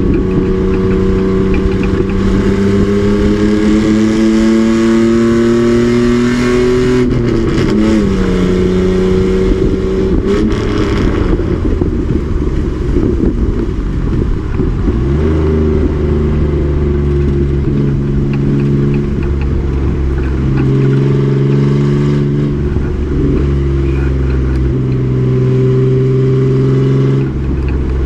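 Race truck's engine under load on track, climbing steadily in pitch for about seven seconds, then dropping sharply. After a second break in the sound around halfway, it runs at a steadier, lower pitch with small rises and falls.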